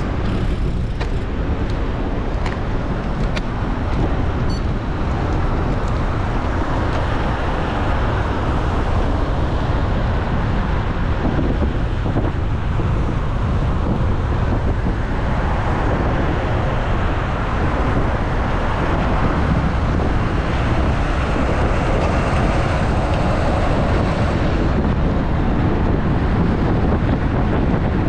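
Steady rush of wind over an action camera's microphone on a moving road bike, mixed with tyre and road traffic noise. A few light clicks come in the first few seconds.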